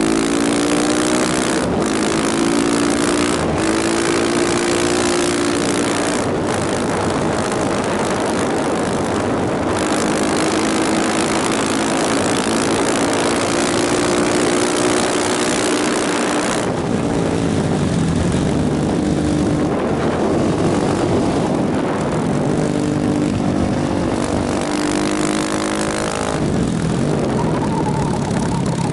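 Motorcycle engine pulling through the gears, each upshift a brief break in the sound, with heavy wind rush on the microphone. About halfway through the wind rush drops away and the engine revs fall, then rise again near the end.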